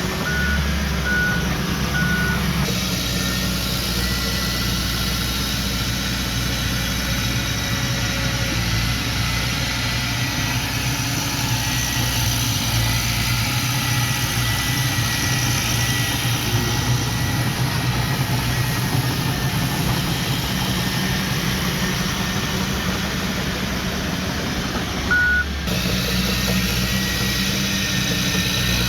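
Heavy diesel machinery running steadily, with a reversing alarm giving three short beeps at the start and one more beep near the end.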